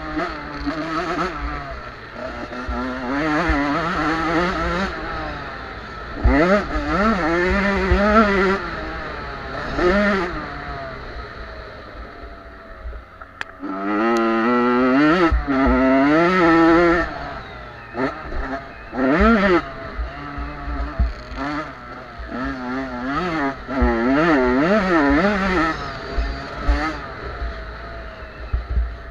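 Small two-stroke motocross bikes (50 to 85 cc) racing, engines revving up and dropping back over and over as they accelerate and shift; the loudest stretch is about halfway through.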